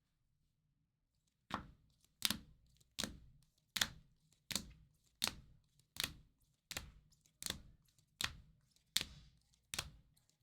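A steady run of sharp knocks, about four every three seconds, starting about a second and a half in. Each knock has a short dying tail.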